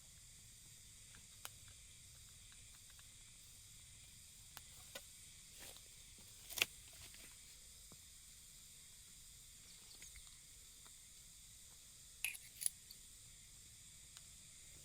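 Faint steady hiss with scattered sharp clicks. The loudest click comes about six and a half seconds in, and a close pair follows a little after twelve seconds.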